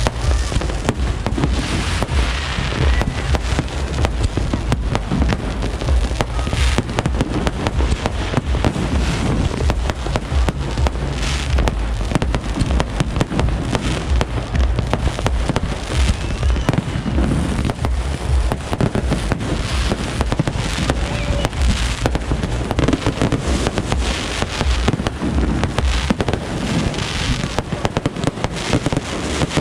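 Fireworks display going off in rapid, continuous volleys: dense crackling and popping over deep booming bursts that barely let up.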